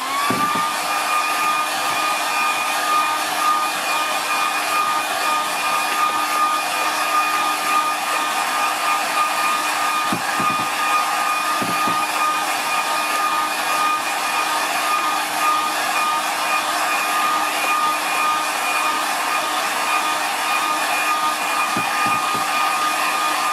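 Hair dryer switched on and running steadily, drying wet watercolour paint: a short rise in pitch as the motor spins up at the start, then a steady whine over the rush of air.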